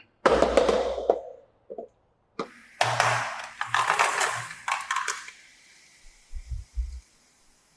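Marbles rolling and clattering down a plastic marble-run track, in two bursts of rapid clicking and rattling, the second longer, followed by a few faint knocks.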